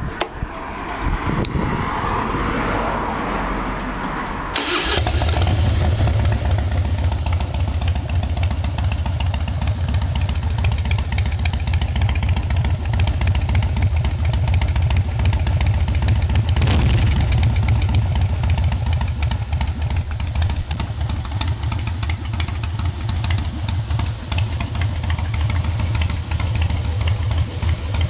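Harley-Davidson Twin Cam 88B V-twin being cranked by its starter for about four and a half seconds, then catching and settling into a steady low, lumpy idle through SAMSON Street Sweepers pipes, with one brief surge partway through.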